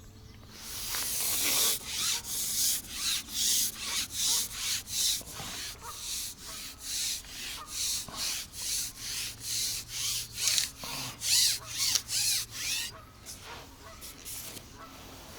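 Carbon fishing pole sliding back in repeated rubbing strokes, about two a second, as it is shipped back while a hooked fish is played. The strokes stop about 13 seconds in.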